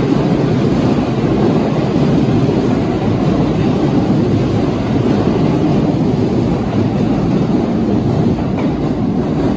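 Kintetsu electric local train moving along an underground station platform, a loud steady rumble of its wheels on the rails.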